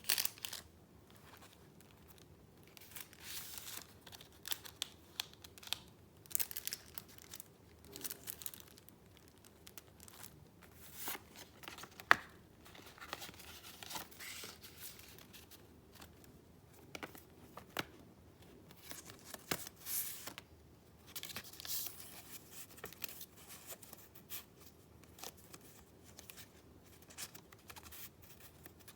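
Papers being handled in short, irregular bursts of sound, with a sharp click about twelve seconds in.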